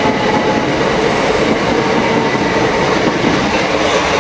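First Capital Connect electric multiple unit passing close at speed: a loud, steady rush of wheels on the rails.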